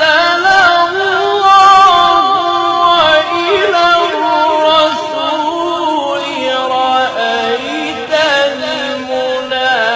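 A reciter's solo voice chanting Quran recitation in long, drawn-out melodic notes with ornamented turns, the pitch stepping gradually lower toward the end.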